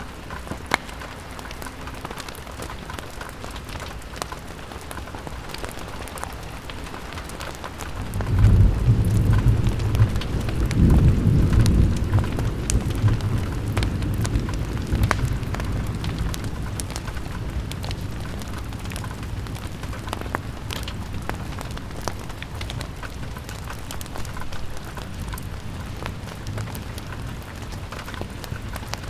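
Steady rain falling on a window glass, with fine drop ticks throughout. About eight seconds in a low roll of thunder swells up and fades away over several seconds.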